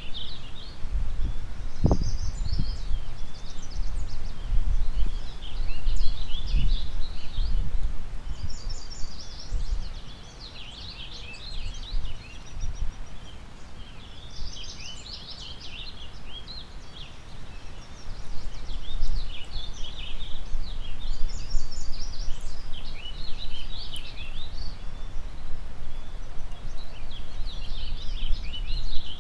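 Several songbirds singing and chirping in a steady spring chorus, over gusts of wind rumbling on the microphone. The wind eases off for several seconds in the middle, then picks up again.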